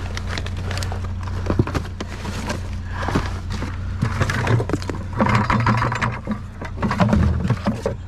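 Rummaging through trash: a plastic bucket and other junk being handled, giving a run of knocks, clicks and rattles, busier a few seconds in. A steady low hum runs underneath.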